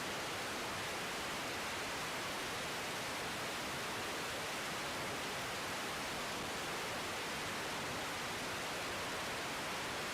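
Steady, even hiss of static from an air traffic control radio feed between transmissions, with no aircraft engine or voice heard.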